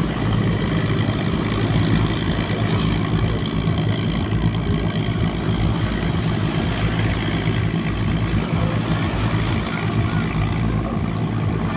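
A ship's engine running steadily, a low even hum that holds the same pitch and loudness throughout.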